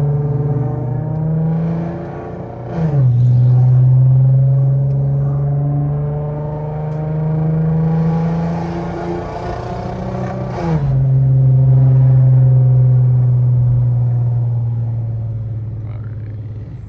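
Infiniti Q50's 3.7-litre V6 through a loud aftermarket exhaust with test pipes and an ISR Y-pipe, pulling under gentle acceleration. The engine note climbs slowly and drops sharply twice, about three and about eleven seconds in, as the transmission upshifts, then holds and fades near the end as the car eases off.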